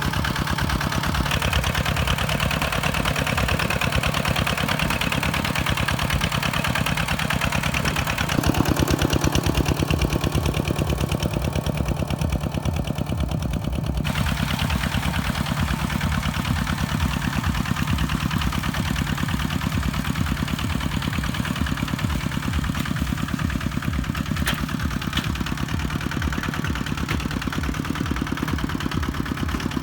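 Kubota tractor's diesel engine running steadily while ploughing soil, its note shifting about a third of the way in and again about halfway through.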